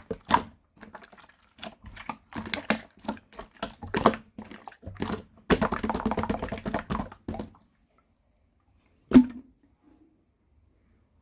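White slime being squished and pressed by hand, giving a quick run of sticky clicks and wet snaps that thicken into a dense crackle for a couple of seconds, then stop. One last sharp pop comes about nine seconds in.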